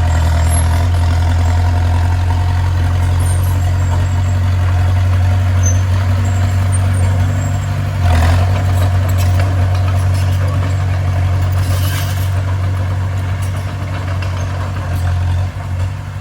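Bulldozer's heavy diesel engine running steadily, with a short louder knock about eight seconds in.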